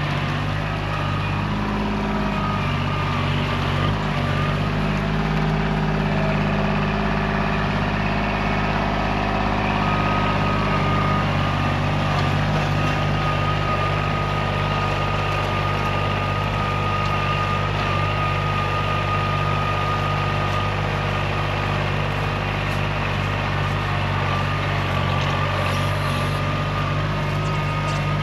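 Kubota tractor's diesel engine running steadily, its note shifting a little in the first several seconds and then holding even, with a thin steady whine above it.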